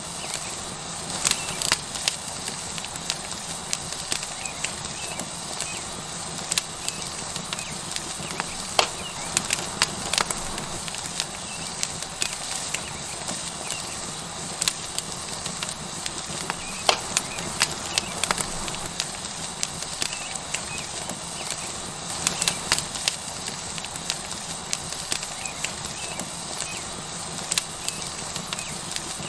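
Tomahawk steak sizzling on a hot rock over a wood fire: a steady hiss with irregular sharp crackles and pops.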